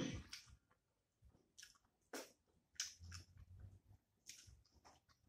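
Close-miked chewing of a mouthful of rice and curry: soft, wet mouth clicks and smacks coming every half second to a second.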